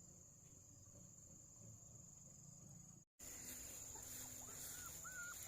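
Faint outdoor ambience under a steady, high insect drone like crickets. Near the end come several short rising-and-falling whines, a dog whimpering.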